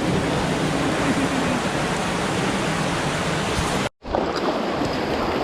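Steady rush of a swollen mountain stream running high after rain. The sound cuts out for an instant about four seconds in, then the rush carries on.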